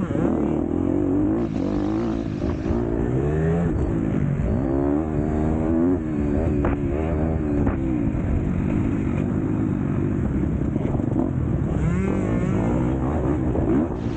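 Motocross bike engine revving hard on a race track, its pitch climbing and dropping again and again as the throttle opens and closes.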